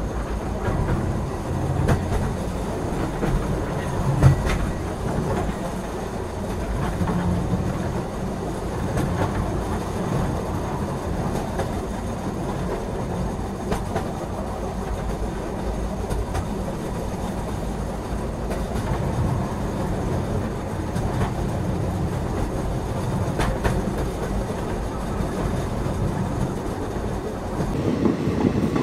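Tiruvarur–Karaikudi Express passenger train running at speed, heard from beside its coaches: a steady rumble and clickety-clack of the wheels on the rails, with a sharp knock about four seconds in.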